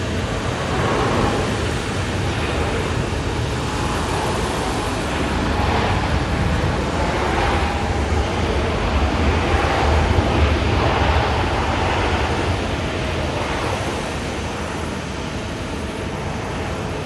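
Jet airliner engines heard passing, a steady rushing noise with a faint whine that swells to its loudest about ten seconds in, then eases.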